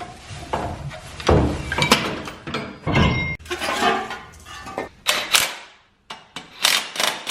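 Metal tools and suspension parts clinking and knocking during work on a pickup's front suspension, in a run of short knocks and scrapes with a brief break about six seconds in.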